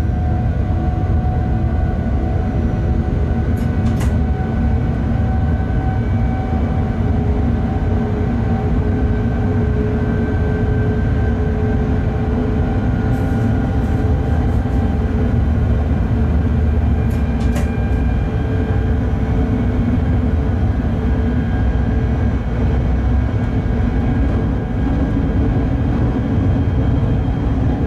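Bombardier Traxx BR 186 electric locomotive running along the line, heard from the cab: a steady low rumble of wheels and running gear with faint steady tones from the traction equipment, and a few short sharp clicks.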